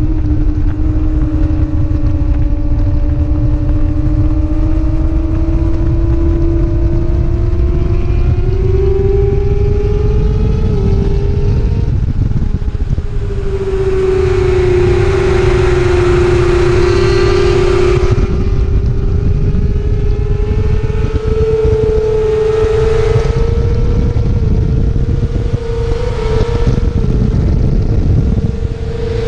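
Racing motorcycle engine at speed with heavy wind noise. Its note climbs slowly over long stretches, with a few short dips and breaks.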